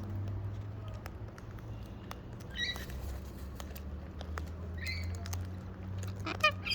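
Wild parrots eating seed close up: a steady scatter of small cracking and nibbling clicks from their beaks. Short, soft calls come about three and five seconds in, and a louder call near the end.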